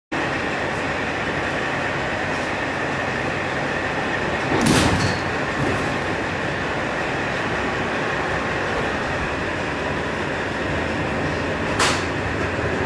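A diesel-hauled 50-series passenger coach rolling slowly, heard through its open window: steady running noise, with a sharp clack of the wheels over the track about five seconds in and again near the end.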